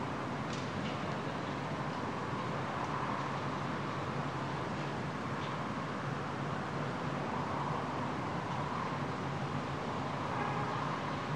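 Steady vehicle noise, an even rumble and hiss with a few faint ticks.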